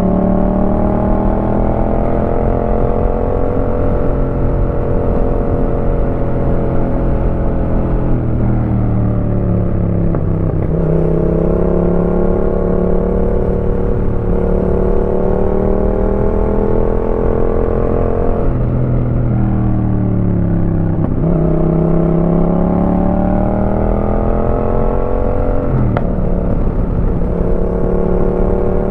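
A 2018 Yamaha MT-07's parallel-twin engine running through a Roadsitalia aftermarket exhaust while riding, mostly holding a steady pitch under load, with the pitch falling and climbing back three times as the rider shifts or rolls off and back on the throttle.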